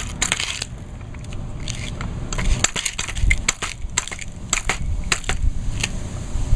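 Irregular metallic clicks, knocks and scrapes as a wrench is fitted to and turned on a chainsaw's spark plug to unscrew it.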